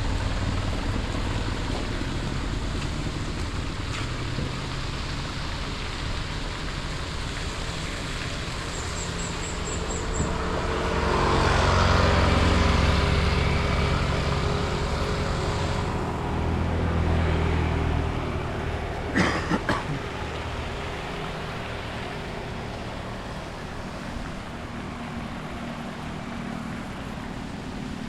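Street ambience with a steady traffic hiss. A vehicle passes close, swelling and fading about twelve seconds in, and a few sharp knocks come about twenty seconds in.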